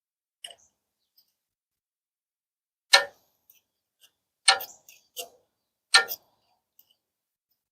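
Five sharp metal clicks and clinks at irregular intervals, the loudest about three, four and a half and six seconds in, from a wrench turning a thread tap into a rust-clogged bracket hole.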